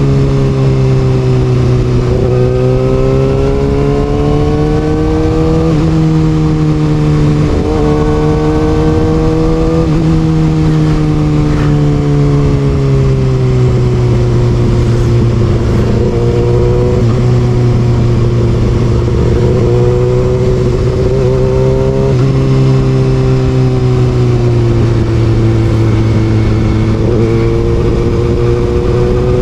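Kawasaki ZX6R inline-four through an Austin Racing exhaust, pulling through the gears: engine pitch climbs under throttle and drops sharply at several gear changes in the first ten seconds, then eases off and holds at lower revs with a few smaller shifts.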